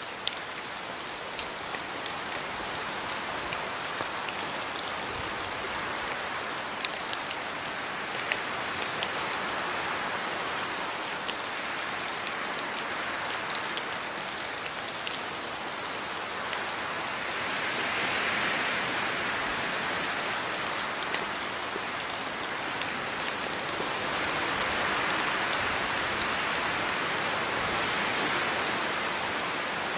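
Steady rain falling, with individual drops ticking sharply on top. The rain swells heavier about seventeen seconds in, eases, then swells again from about twenty-four seconds.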